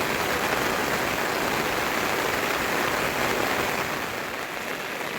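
Steady rain falling, a dense even hiss of drops that eases slightly near the end.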